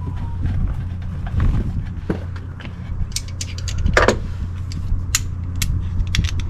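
Scattered metallic clicks and clinks of a 3/8 ratchet and socket running the oil drain plug back into the oil pan, with a short squeak about four seconds in, over a steady low hum.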